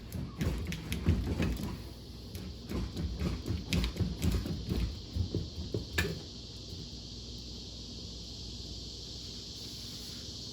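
Irregular metal clunks and scraping as a Mercruiser Alpha One Gen One stern drive is worked loose and slid off the boat's transom, ending with a sharp knock about six seconds in. After that only a steady high drone of cicadas remains.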